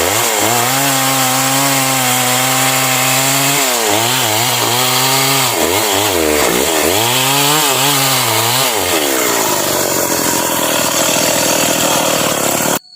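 Stihl MS 381 two-stroke chainsaw running at high revs while cutting. Its pitch holds steady at first, then dips and recovers several times as the chain loads up in the wood, turns into a harsher roar, and cuts off abruptly near the end.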